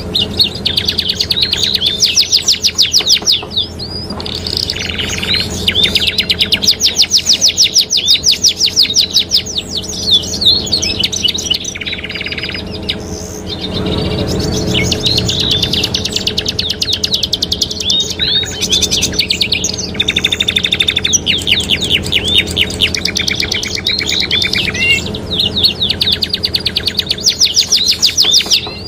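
Domestic canaries singing: a continuous song of fast, high-pitched trills and rolls, each run of rapidly repeated notes lasting a few seconds with short breaks between, over a steady low hum.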